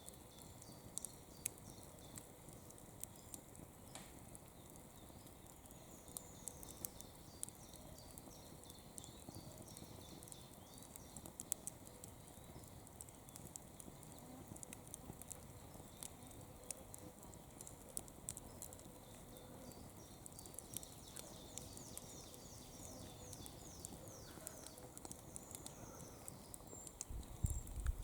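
Campfire burning, the wood crackling with irregular sharp snaps and pops. A faint high trill of quick falling notes comes in later on.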